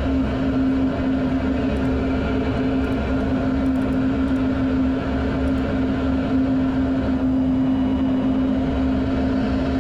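Steady in-flight cockpit noise of a fighter jet: a constant rumble of engine and airflow with an unchanging hum, picked up by the cockpit microphone.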